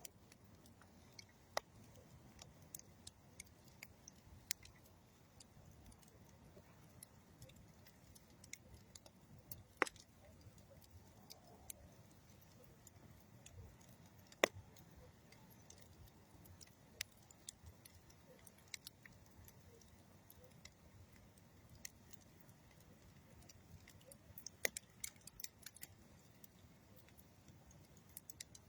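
Campfire of old railroad wood and dead tree wood crackling: irregular sharp pops and snaps over a soft low rush of the burning fire, with a few louder pops about ten and fifteen seconds in and a flurry near the end.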